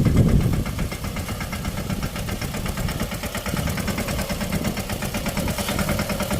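Mini tractor's small engine running steadily with a rapid, even pulsing beat, a little louder at the very start.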